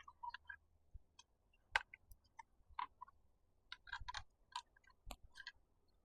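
Faint, irregular light clicks and taps of a screwdriver and screw being worked into a plastic miter-saw dust chute by hand, with a small cluster of clicks about four seconds in.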